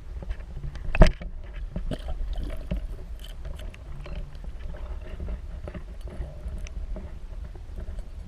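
Handling noise in a kayak: a steady low rumble with scattered small knocks, and one sharp, loud knock about a second in.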